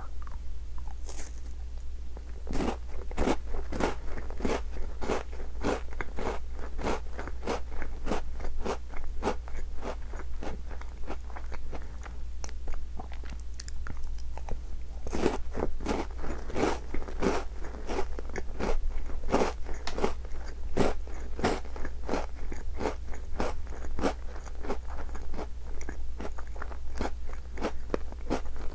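Tim Tam chocolate-coated biscuits being bitten and chewed: a steady run of crisp crunches, about two a second, over a constant low hum.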